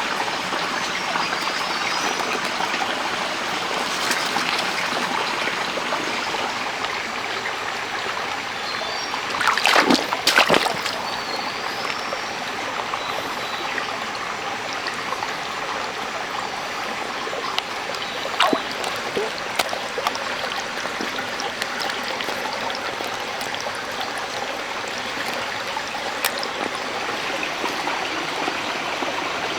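Stream water running steadily, with a louder splashing burst about ten seconds in and a few sharp clicks later on.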